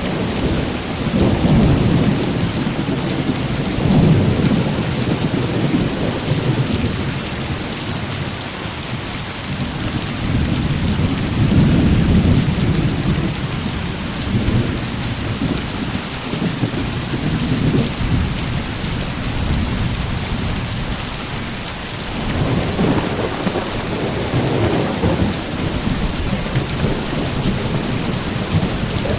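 Heavy rain falling steadily, with low rolling thunder that swells and fades three times: about a second in, around ten seconds in, and again a little past twenty seconds.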